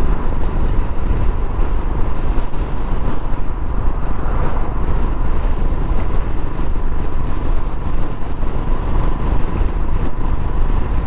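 Royal Enfield Himalayan's single-cylinder engine running steadily under way, mixed with wind and road noise.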